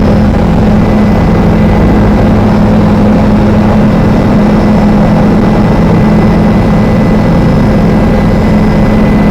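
Helicopter engine and rotors running: a loud, steady drone with a strong low hum.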